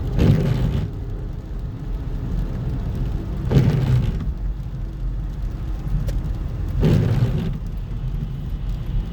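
Car on the road: a steady low rumble of engine and tyres, with a brief louder swell about every three seconds.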